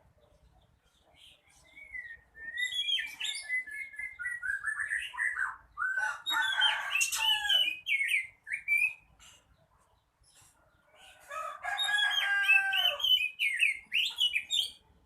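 Oriental magpie-robin singing in two long bouts of varied whistles, rising and falling slurs and rapid chattering phrases, with a pause of about two seconds between them.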